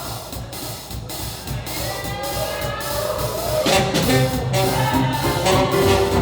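Live swing jazz band playing: the drums keep a steady beat of about two strokes a second, and the horns come in about halfway through and grow louder.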